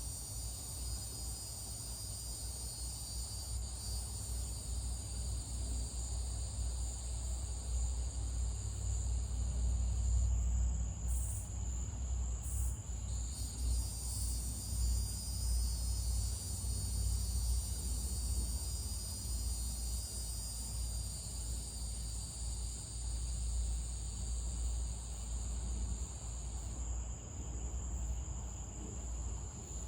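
A chorus of night insects, a steady high chirring that briefly thins out a few times, over a steady low rumble.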